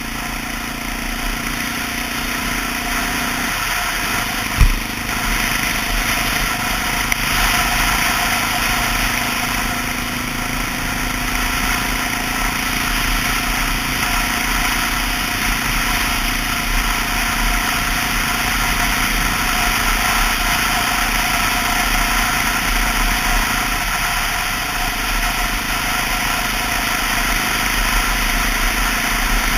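Honda XR650L's single-cylinder engine running at a steady pitch, with one brief sharp knock about four and a half seconds in.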